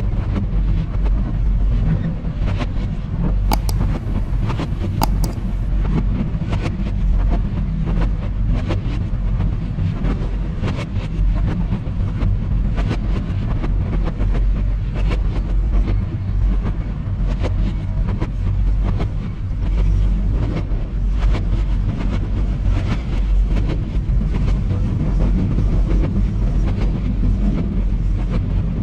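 Inside a moving PT INKA passenger coach: the train runs along the track with a steady low rumble, and frequent clicks and knocks come through it.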